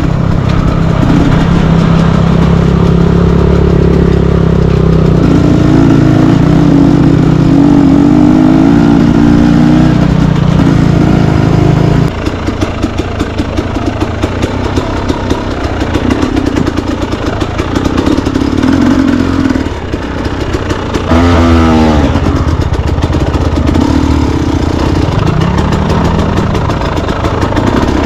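Enduro motorcycle engine running as it rides, holding steady revs for about twelve seconds and then easing off, with a brief rise and fall in revs about three-quarters of the way through.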